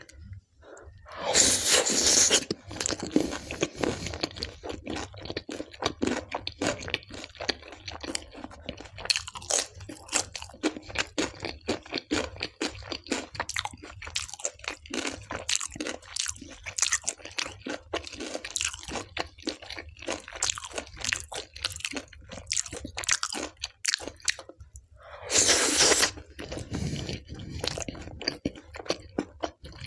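Close-miked chewing of tandoori naan dipped in soybean dal: a dense run of quick crunching and chewing clicks, with two louder stretches of about a second each, around two seconds in and again near the end.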